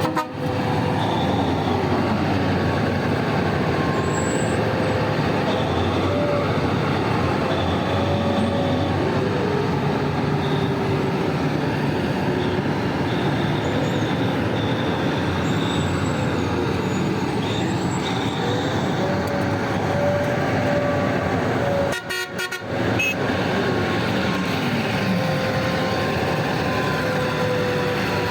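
Heavy mining machinery working: the diesel engines of a big loader and haul dump trucks running under load, with whining tones that slowly rise and fall. The sound drops out briefly about three quarters of the way through.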